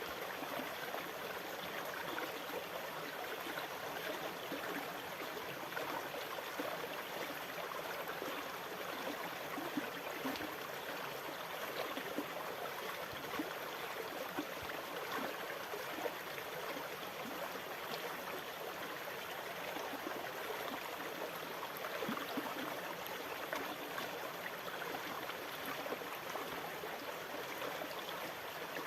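Moving water: a steady rushing with many small splashes throughout, holding an even level without the surge and fall of breaking waves.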